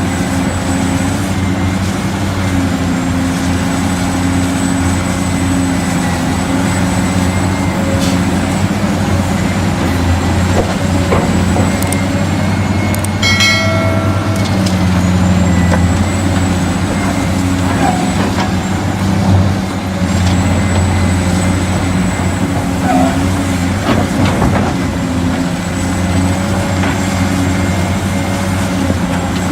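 Remote-control toy construction trucks running: a steady truck-engine hum with a thin, high electric-motor whine that dips and recovers several times. A short burst of clicks and a brief tone come about halfway through.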